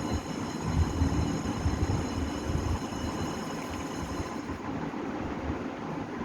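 Coloured pencils being rubbed back and forth on a sketchbook page, a continuous scratchy shading noise with uneven low knocks from the strokes.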